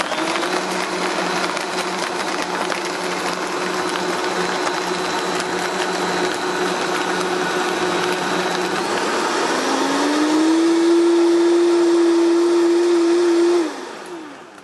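Countertop blender running, blending banana, ice and milk into a smoothie. About two-thirds of the way through, the motor's pitch rises and it gets louder. Near the end it switches off and winds down.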